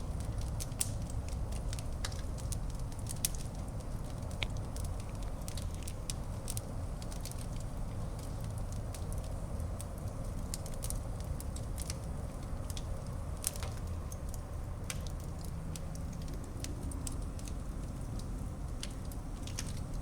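Wood fire burning in a fireplace: a steady low rush of flames with frequent small crackles and an occasional louder pop.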